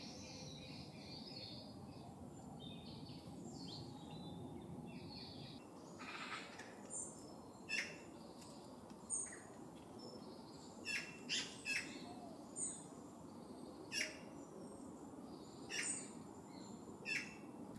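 Songbirds in a forest: a quick twittering song for the first few seconds, then a series of about ten short, sharp calls from about six seconds in, over a steady low background hiss.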